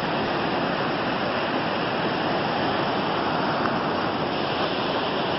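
Rushing floodwater from a creek swollen by a hailstorm, a steady loud roar of fast-moving water.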